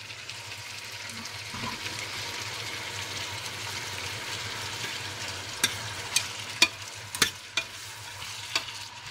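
Wet soaked white beans sizzling in hot olive oil and onion in a stainless steel pot while a metal spoon stirs them. The sizzle strengthens after about a second and a half. In the second half the spoon clinks sharply against the pot about six times.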